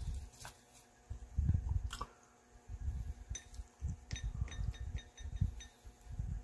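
Close-miked, open-mouthed chewing of crispy potato pancake (gamjajeon), heard as low, uneven mouth sounds. From about three seconds in there is a quick run of light, ringing clinks as wooden chopsticks tap against the ceramic soy-sauce dipping bowl.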